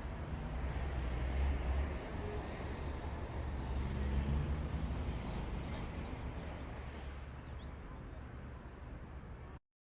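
Steady, deep rumbling noise that swells twice and then eases, with faint high tones over it for a couple of seconds in the middle, cutting off abruptly just before the end.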